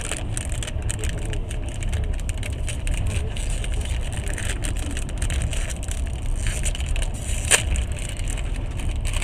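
Steady rumble and rattle of a moving passenger train, with many small crackles and one sharp click about seven and a half seconds in.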